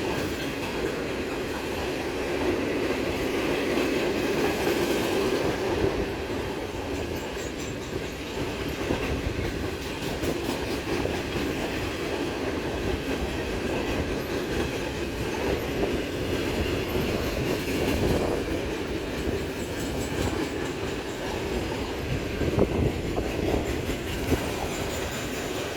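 Freight train cars rolling steadily past, their wheels clicking over the rail joints with a continuous rumble.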